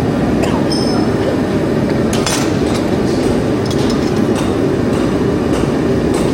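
Steady roar of a running forge, with a few sharp metal clinks scattered through it.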